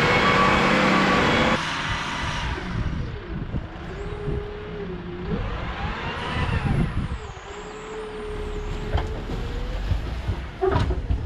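Bobcat 753 skid-steer loader's diesel engine running while working dirt, its pitch rising and falling with the load. It is loud for the first second and a half, then drops to a lower level, with a few sharp knocks near the end.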